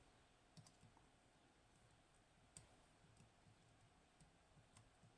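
Faint, scattered clicks of a lock pick working the pins of a Hori Trident high-pin-count lock with T-spool drivers. The sharpest clicks come about half a second in, at two and a half seconds and near the end.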